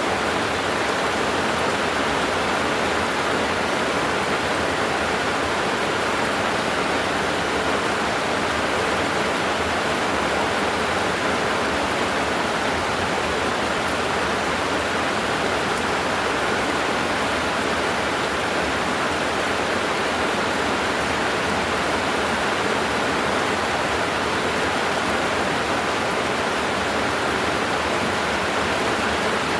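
Heavy rain pouring steadily, an even rushing downpour with no thunder claps.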